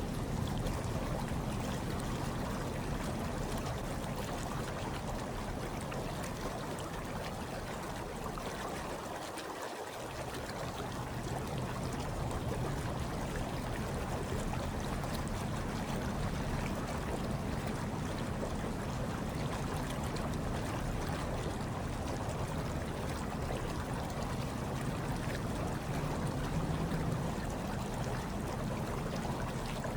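Hot tub water bubbling and churning steadily, a continuous watery rush.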